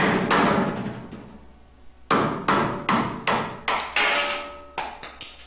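Hammer blows on a screwdriver, driving it in to break the rear seal out of a GM 4L60 automatic transmission's extension housing. Sharp metal strikes come about two and a half a second, with a pause of over a second before a second run, and a noisier scraping hit with some ringing near the end.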